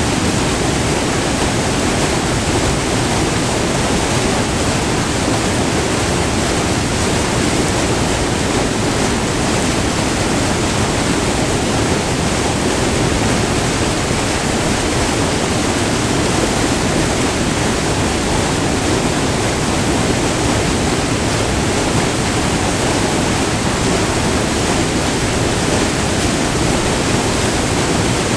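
Rushing white water of a short multi-tiered river waterfall, a steady, even rush heard up close.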